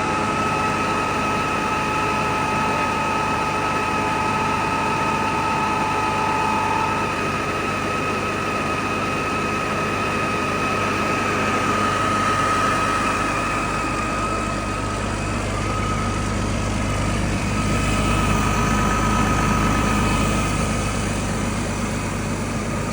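Used engine running steadily at idle, with a steady high whine over its drone; the low rumble swells for a few seconds near the end.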